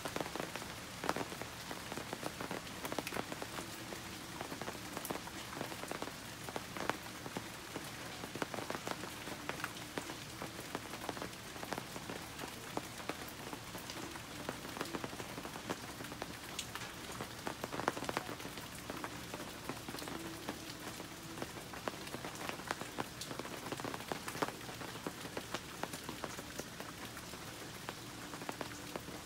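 Steady rain falling, with frequent sharp ticks of single drops striking close by.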